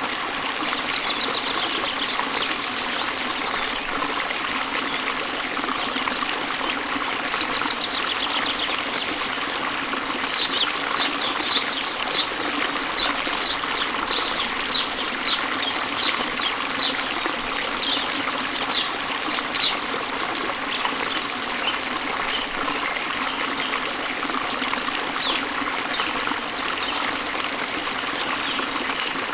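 Steady flowing water, an even trickling rush. A bird sings a run of short high notes, about two a second, from about a third of the way in to about two-thirds through.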